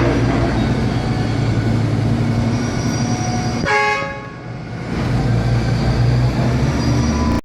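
Heavy diesel engine of a concrete pump truck running steadily with a low drone, and a short horn toot about four seconds in.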